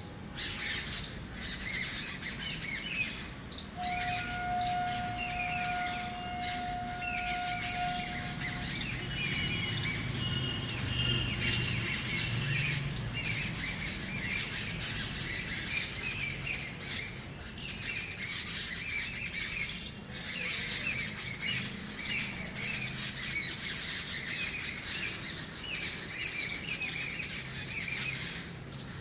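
Agitated alarm calls of several birds, rapid chirps and squawks overlapping without pause: adult birds mobbing a snake raiding their nest. A steady tone, like a faint whistle, sounds for a few seconds near the start.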